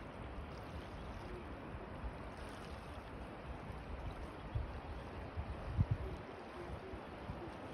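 Surf washing on the shore of the Gulf of Finland, a steady rushing of small waves. Wind buffets the microphone in low gusts, strongest around four and a half and six seconds in.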